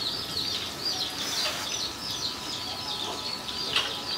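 Small birds chirping continuously in short, high-pitched, downward-sliding notes, several a second, with one louder sharp note near the end.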